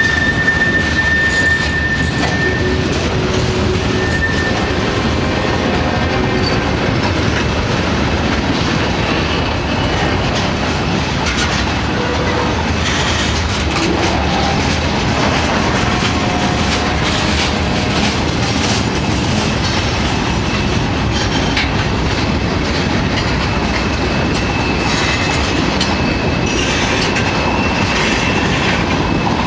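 Train rolling past, its cars rumbling steadily with wheels clicking over rail joints. Thin high wheel squeals come and go, briefly near the start and again near the end.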